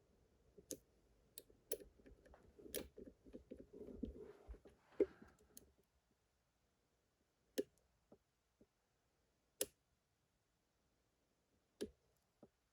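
Small sharp clicks of a lock pick and tension wrench working the pin stack of a challenge lock. A few seconds of scratchy picking comes first, then single clicks about two seconds apart as the pick lifts the second pin.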